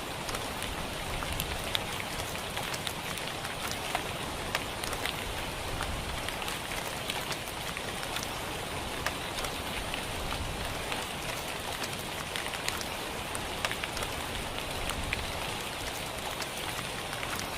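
Heavy rain falling steadily, with many sharp drop hits scattered through it.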